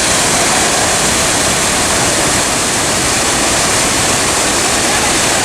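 A large river waterfall falling with great force, heard close to where it lands: a loud, steady rush of water.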